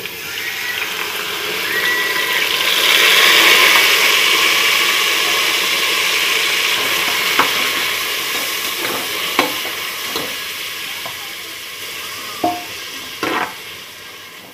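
Chopped tomatoes sizzling in hot oil in an aluminium pressure cooker. The hiss starts suddenly, swells over the first few seconds and slowly dies down. A metal slotted ladle stirs them, clinking against the pot a few times in the second half.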